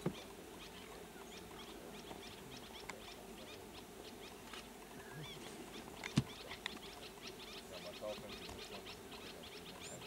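Outdoor bush ambience of small birds chirping: many short, high chirps in quick succession, with a single sharp click about six seconds in.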